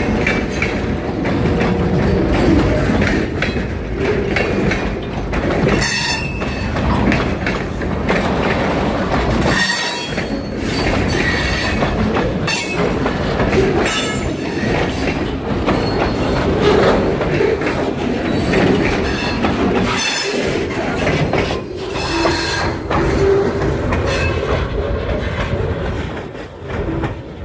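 Freight train cars rolling past at close range: a steady rumble of steel wheels with repeated clicks over rail joints and some wheel squeal.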